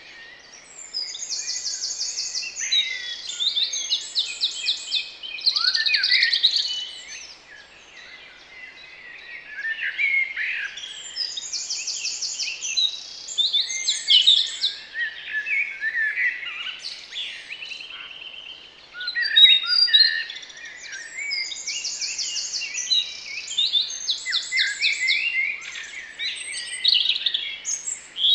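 Garden birds singing and chirping, with several overlapping songs. A song phrase ending in a high, fast trill comes back about every ten seconds, three times.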